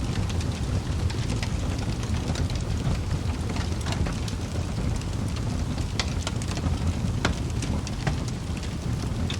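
Log fire burning in a fireplace: a steady low rumble of flames with scattered sharp crackles and pops from the burning wood, a couple of louder pops around six and seven seconds in.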